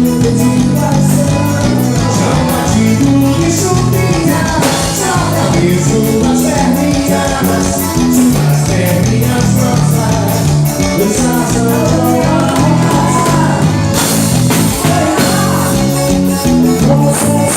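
Forró band music with a walking bass line, a steady, fast percussion beat, and a singing voice over it.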